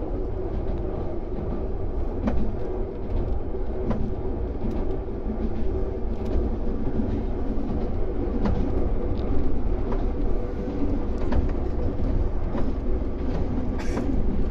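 Meitetsu Seto Line 4000 series electric train running, heard from inside the front car: a steady rumble and hum with sharp clicks from the wheels on the rails every second or two.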